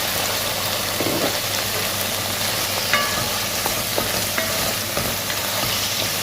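Cubed chicken frying in oil with onions, tomato and chilli in a pan: a steady sizzle, with a few light clicks of a utensil on the pan as it is stirred.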